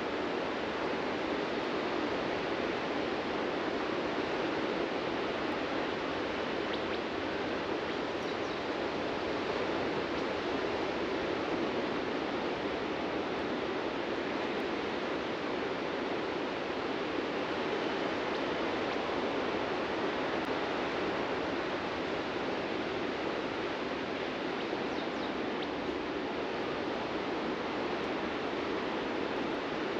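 Ocean surf washing steadily onto a beach, a constant rushing with no single wave standing out.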